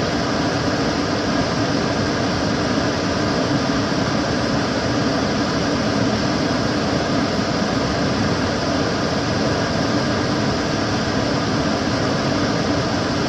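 Kitchen cooker hood extractor fan running steadily, a constant airy rush with a low hum.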